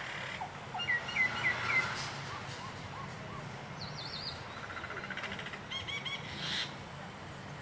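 Birds calling: several runs of quick, short chirps at different pitches, a higher trill near the middle and a last burst of repeated notes a little before the end, over a low steady rumble.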